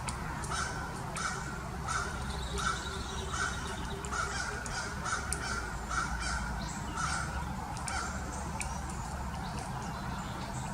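A bird giving a long series of about a dozen short, harsh calls, evenly spaced under a second apart, over scattered sharp taps and clicks.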